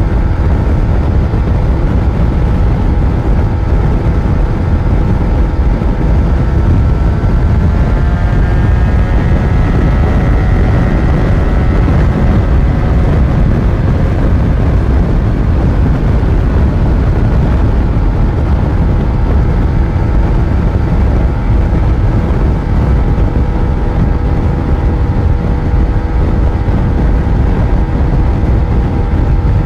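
Yamaha FZ1 inline-four motorcycle engine running under way, with heavy wind rush on the microphone. The engine note rises about seven to ten seconds in, then holds steady.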